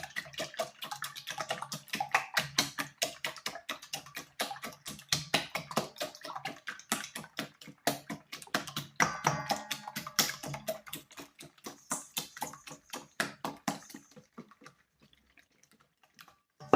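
Eggs being whisked by hand in a bowl, the whisk clicking rapidly against the bowl about five times a second. The strokes grow sparse and fade near the end.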